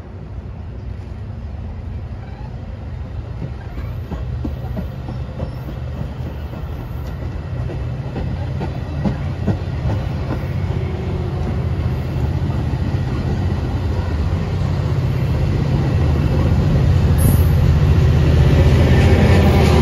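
A diesel train approaching on the rails: a steady low engine drone that grows gradually louder, with scattered wheel-and-rail clicks.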